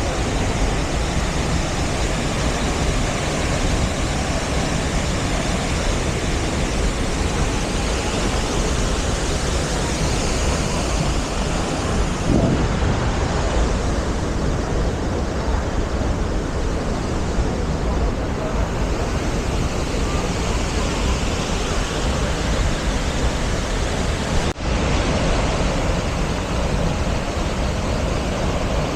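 Athirappilly Falls, a large monsoon-swollen waterfall, rushing in a loud, steady roar of falling water, with a brief break in the sound about 25 seconds in.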